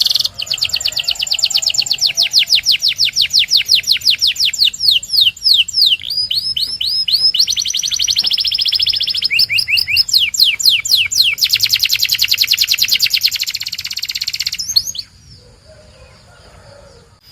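Canary singing a long song of rapid trills and rolls, switching from one tour to the next every second or two, with fast runs of falling notes between them. The song stops suddenly near the end.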